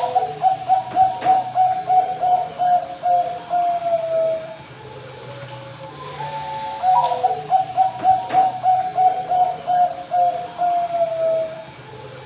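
Perkutut Bangkok (zebra dove) cooing its song: a quick run of repeated coo notes, about three or four a second, ending in a longer falling note. One phrase is already under way and ends about four and a half seconds in. A second begins about six seconds in and ends shortly before the end.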